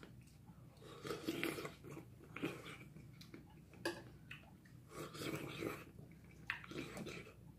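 A person chewing food, in irregular bursts of mouth noise, with one sharp click about four seconds in.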